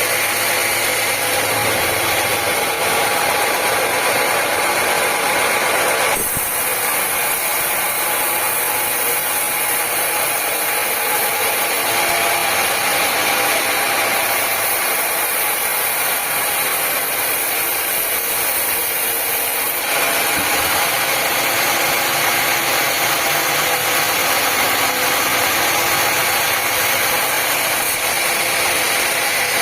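Sawmill machinery running steadily with a loud, even mechanical noise, its character changing abruptly about six seconds in and again about twenty seconds in.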